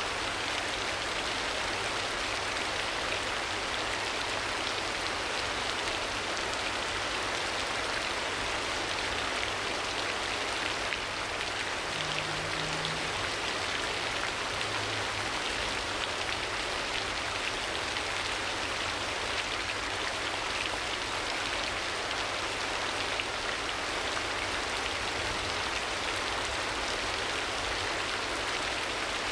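Steady rain falling and pattering on surfaces: a continuous rain ambience, even in level throughout.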